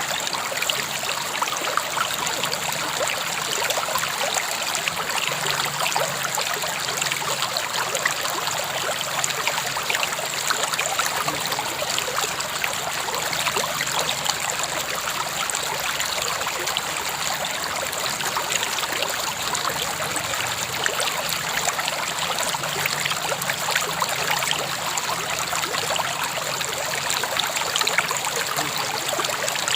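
A river flowing steadily, with a continuous rushing and fine trickling of water.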